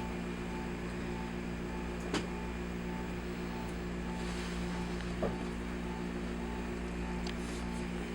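Steady mechanical hum, as of a fan or ventilation unit, with a sharp click about two seconds in and a softer one about five seconds in.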